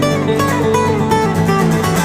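Background music with acoustic guitar playing, notes picked and strummed over sustained chords.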